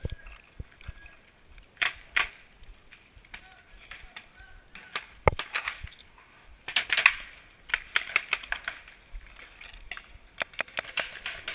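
Paintball marker firing sharp pops in short, irregular bursts, with a quick run of several shots near the end.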